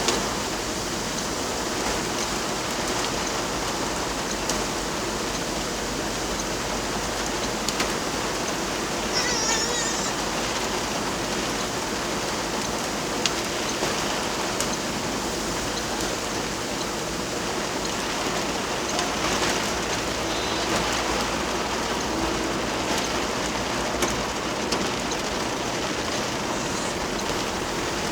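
Heavy rain falling in a steady hiss, with scattered sharp drop taps.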